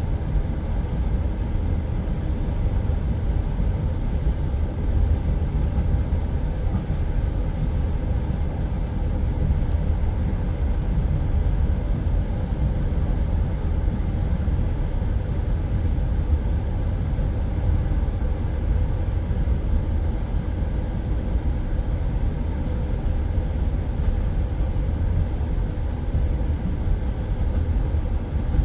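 Passenger railway carriage running between stations: a steady low rumble of wheels on rails, heard from inside the carriage at the window.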